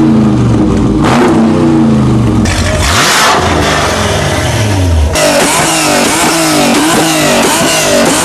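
Car engine revving: the revs fall away, rise again and hold, then cut off about five seconds in, followed by a quick series of rev blips rising and falling a few times a second.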